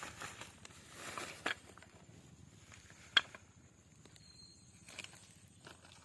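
Faint rustling and scuffing handling noise, with a sharp click a little past halfway and a brief high tone about a second after it.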